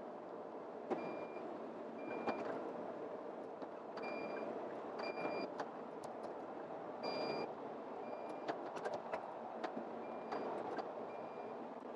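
A truck's reversing alarm giving short, high beeps about once a second, over steady engine and road noise.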